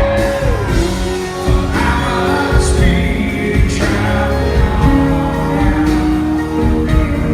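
Southern rock band playing live, a voice singing held notes over electric guitars and a full band.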